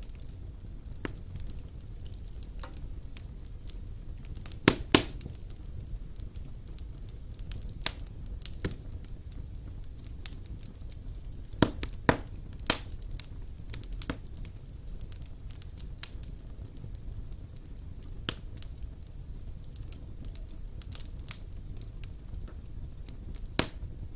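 Wood fire burning in a fireplace: a low steady rumble of flame with irregular sharp crackles and pops of burning logs, the loudest about 5 and 12 seconds in.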